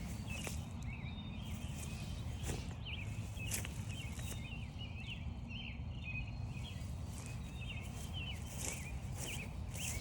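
Footsteps crunching through frost-stiffened grass, a few irregular steps, while small birds chirp and twitter continuously in the background over a low steady rumble.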